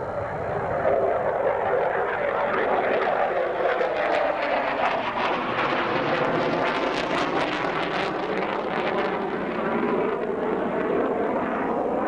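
Military fighter jet's engines running at high power as it passes, a loud jet noise that swells about a second in and crackles through the middle.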